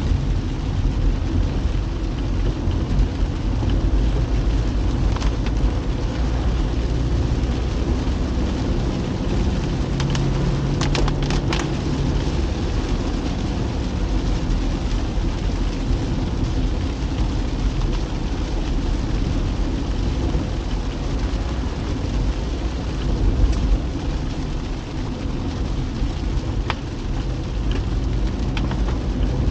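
Car driving on a wet road in the rain: a steady low rumble of road and engine noise with rain noise over it. A few brief sharp clicks come about ten to twelve seconds in and again near the end.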